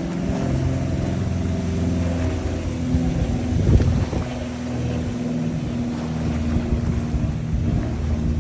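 Wind buffeting the microphone in a low, continuous rumble, with a steady low drone underneath.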